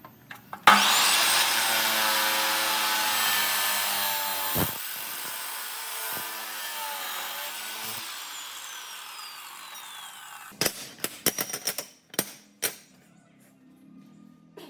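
Electric power tool starting suddenly and running with a loud whine for about four seconds, then switched off and spinning down for several seconds, its whine falling in pitch as it slows. A handful of sharp clicks follow near the end.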